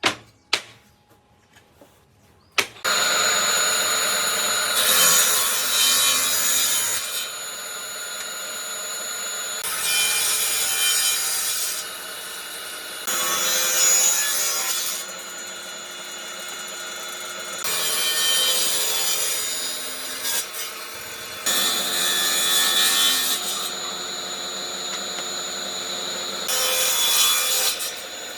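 A few sharp clicks, then a power tool starts about three seconds in and runs steadily on wood. Every few seconds the sound gets louder and rougher as the tool is pushed into the workpiece, then eases back.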